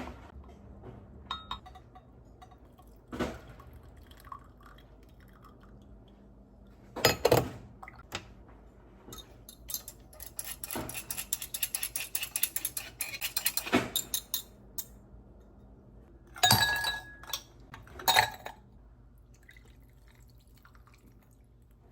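Scattered clinks and knocks of dishes and glassware, with a dense run of quick clicks in the middle and a few louder clatters.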